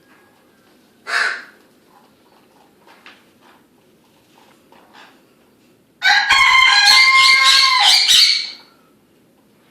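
A pet bird gives a short loud call about a second in, a few soft chirps, then a loud crowing call of about two and a half seconds, held at a steady pitch like a rooster's crow.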